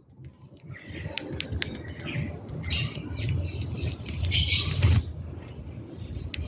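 Birds feeding at close range: wings flapping, with scattered sharp taps and short harsh bursts, the loudest coming about four and a half seconds in.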